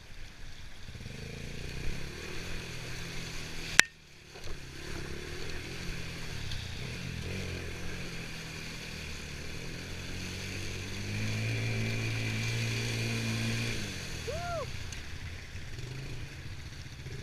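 Honda TRX90 ATV's small single-cylinder four-stroke engine running, pulling harder and louder for a few seconds past the middle. A single sharp click sounds about four seconds in.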